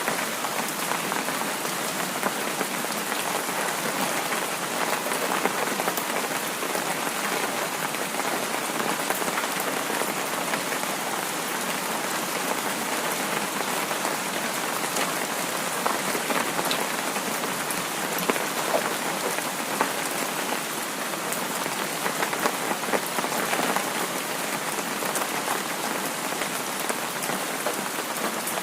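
Heavy rain falling steadily: a dense, even hiss with many small drop impacts ticking through it.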